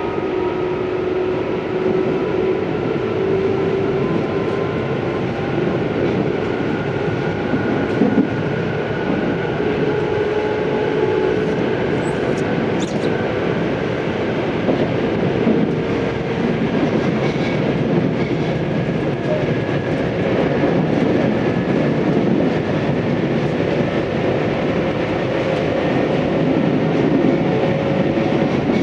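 Tobu 634-series electric train running along the line, heard from inside the car: a steady rumble of wheels on rail with faint tones from the running gear that slowly drift in pitch.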